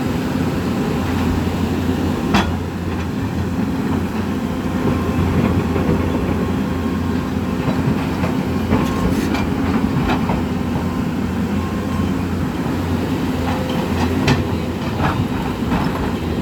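Steady, loud, low rumble of a river in flood, with a few sharp knocks over it.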